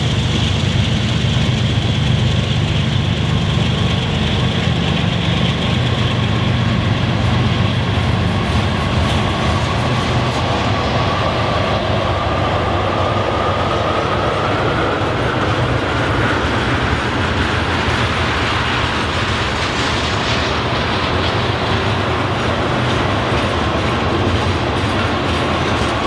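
Freight train cars rolling past, covered hoppers and then tank cars, with a steady rumble and wheels clicking over the rail joints. A thin whine climbs and then eases back down over the middle.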